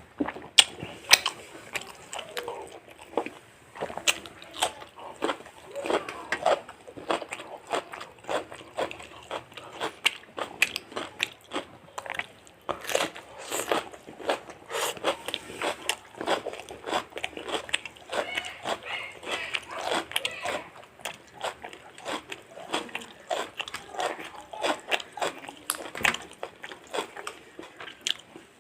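A person eating a fried chicken meal close to the microphone: crunchy bites and chewing, a dense, irregular run of short crunches and mouth clicks.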